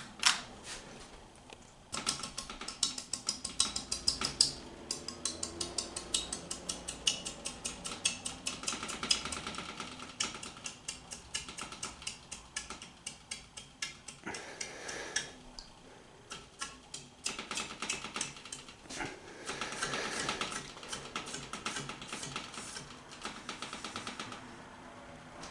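Clarkston II ceiling fan running on medium, with a rapid, uneven light clicking and tinkling, several ticks a second, that thins out briefly in the middle.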